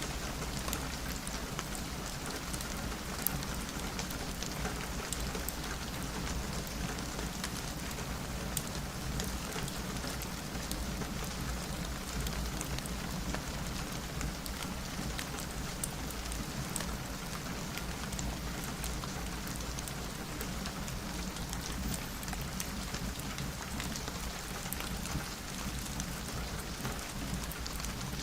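Steady rain, an even hiss scattered with many small sharp ticks of drops striking.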